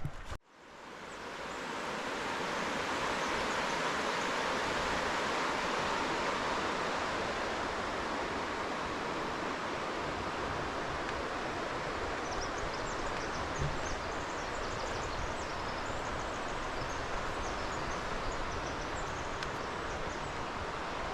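Steady rushing of creek water, fading in over the first couple of seconds, with faint bird chirps in the second half.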